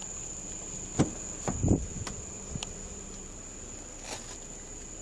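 Steady high-pitched insect drone, like crickets, running throughout. A few knocks or thumps cut across it: the loudest about a second in, a quick cluster just after, and smaller ones later.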